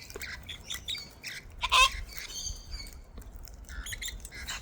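Wild cockatoos squawking and chattering at close range, with one loud harsh squawk a little under two seconds in.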